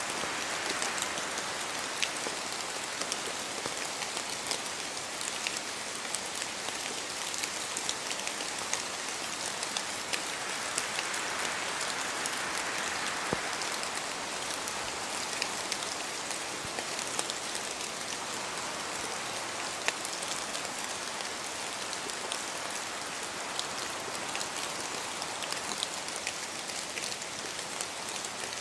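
Steady rain falling in a forest, drops pattering on leaves and dripping from the trees, with gusts of wind swelling and easing every several seconds.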